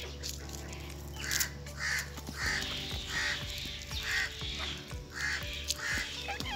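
Background music with steady sustained tones, over which a bird gives a run of about seven harsh, evenly spaced calls.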